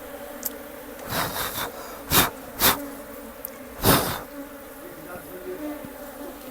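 Asian honey bees (Apis cerana) flying around the open hive with a steady buzzing hum, flying calmly rather than defensively. Several short, loud rushes of noise cut in between about one and four seconds in.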